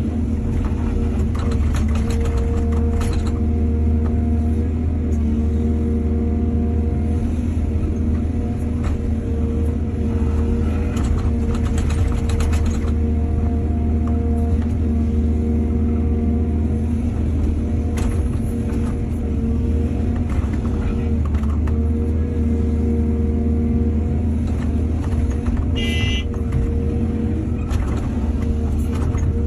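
Diesel excavator engine running steadily with a low drone. Two spells of rattling clatter come about a second in and again around eleven seconds, and a brief high squeak comes near the end.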